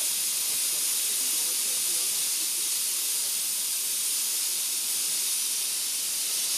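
Steady hiss of steam escaping from the Ravenglass & Eskdale Railway's 15-inch gauge steam locomotive 'Northern Rock', with no exhaust beats.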